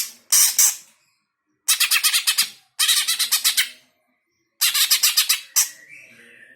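Greater green leafbird (cucak hijau) calling in harsh, fast chattering phrases, each about a second of rapidly repeated notes, with short silent gaps between. A fainter thin whistle follows near the end.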